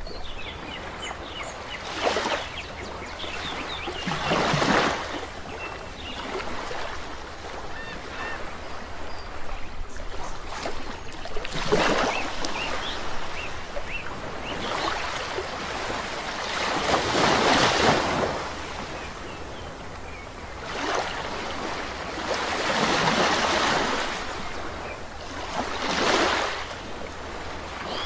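Small waves washing onto a shore every two to five seconds, each rising and falling away, with faint short bird chirps between them in the first half.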